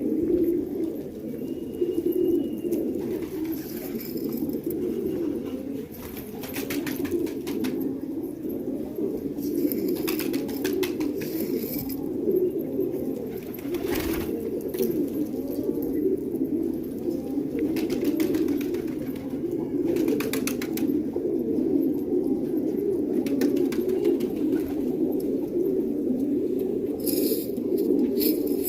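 A flock of domestic pigeons cooing together in an overlapping, continuous murmur, with brief sharp sounds now and then.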